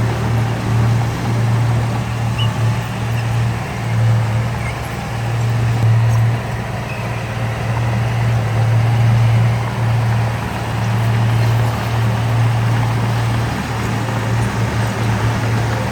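Diesel engine of heavy earthmoving machinery running steadily under load, a low hum whose loudness swells and eases over a wash of mechanical noise.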